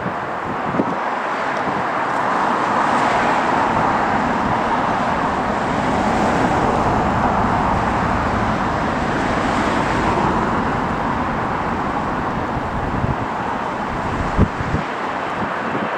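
A steady, broad engine roar, swelling over the first few seconds and easing a little near the end, with a few faint knocks after about fourteen seconds.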